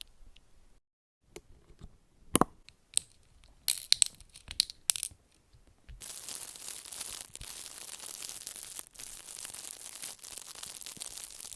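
A quick run of sharp clicks and clinks, like small hard objects tapped or knocked together, then about six seconds of steady crackling hiss that cuts off suddenly.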